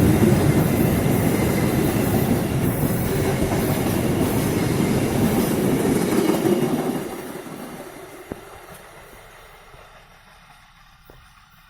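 Passenger train rolling past on the rails with a loud rumble and wheel clatter. About seven seconds in the noise drops off sharply, then fades away as the train moves off, leaving a few faint clicks.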